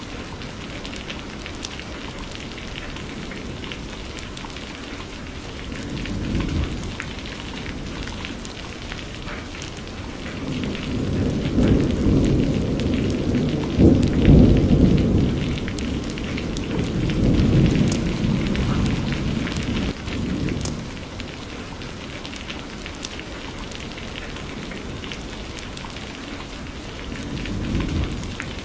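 Steady rain falling, with rolling thunder: a faint rumble early on, then a long roll that builds and peaks around the middle before fading, and another low rumble near the end.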